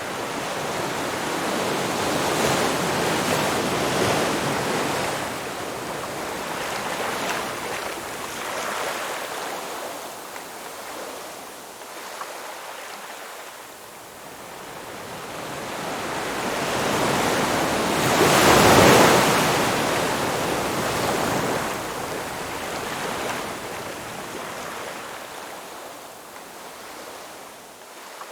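Ocean waves breaking on a shore: surf swelling and washing in twice, the second and loudest wave about two-thirds of the way through, with quieter wash between.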